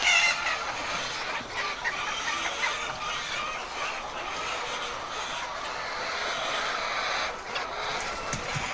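A flock of hens clucking together, a dense steady chatter of many overlapping calls, with one louder call right at the start.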